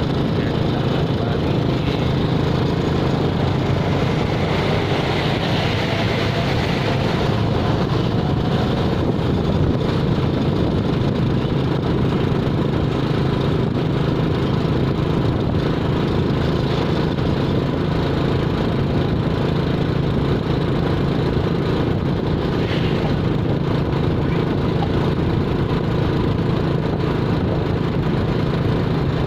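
A vehicle engine running with a steady drone, unchanging throughout.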